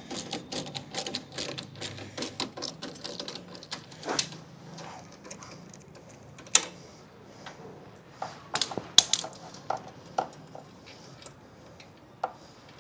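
Ratchet wrench clicking rapidly as exhaust mounting bolts are backed off, then scattered metallic clinks of tools and loosened parts.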